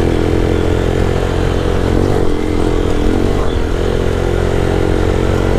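Lifan KP motorcycle engine running at a steady cruising pace while riding; its note dips slightly a couple of seconds in, then holds steady.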